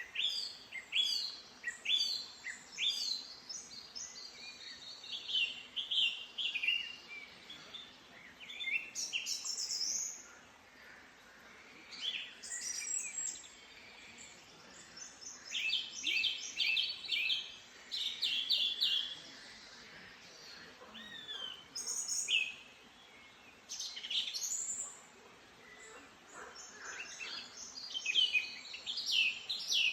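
Several songbirds singing in the forest: short phrases of quick, repeated high chirps and trills, one after another and sometimes overlapping, over a faint background hiss.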